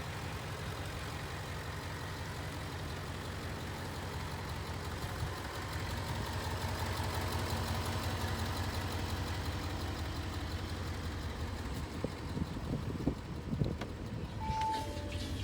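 Audi SQ7's V8 engine idling steadily, with a few knocks and a short beep near the end.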